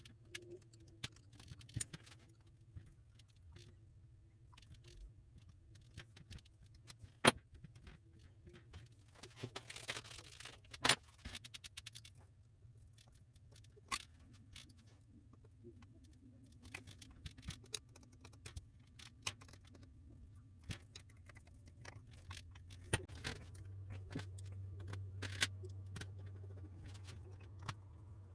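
Scattered metallic clicks and clinks of hand tools and engine parts being handled during an engine overhaul, a few of them sharper knocks. A low steady hum comes up about three-quarters of the way through.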